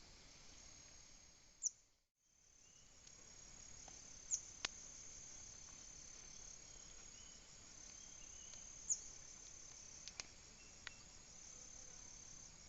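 Faint, steady high-pitched insect song, with a few short, sharp bird chirps that fall in pitch and some light clicks scattered through it. The sound drops out briefly about two seconds in.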